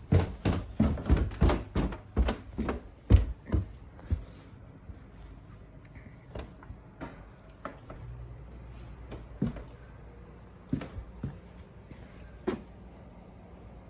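A quick run of knocks and thumps, two or three a second, for about four seconds, then a few scattered softer taps and clicks.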